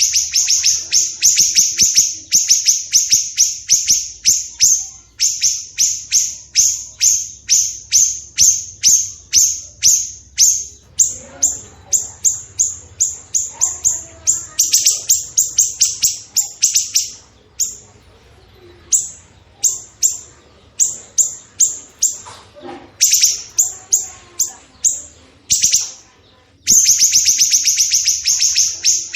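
Caged songbird giving a fast, harsh series of sharp high chip notes, about four a second, with a few short breaks in the middle.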